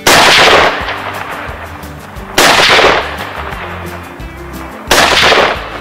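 Three shots from an AR-15 rifle with an 18-inch bull barrel, evenly spaced about two and a half seconds apart, each trailing off over about half a second.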